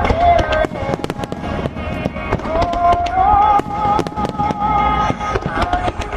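Fireworks bursting in quick, irregular succession, many sharp bangs crackling one over another. Under them plays music with a long, held, gliding melody line.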